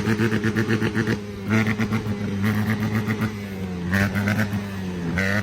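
Honda CRF150R dirt bike's single-cylinder four-stroke engine running at low revs with a rapid, even pulsing exhaust note; the pitch wavers a little about four seconds in.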